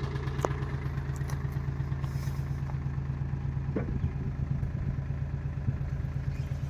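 Diesel engine of a farm machine (JCB loader or tractor) running steadily with an even low throb, with a couple of light knocks from the machinery.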